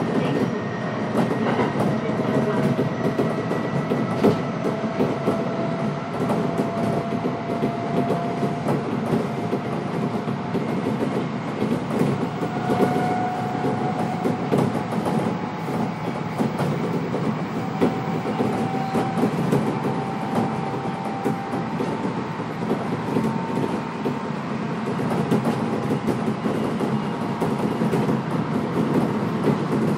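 Kintetsu electric train running between stations, heard from inside the car: a steady rumble of wheels on rail with frequent rail-joint clicks, and a faint motor whine that climbs slowly in pitch.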